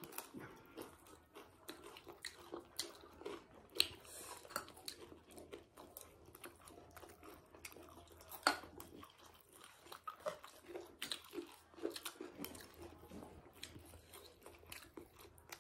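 Close-up chewing of crunchy chatpat, a spiced puffed-rice snack: soft, irregular crunching and clicking bites, a few sharper crunches standing out.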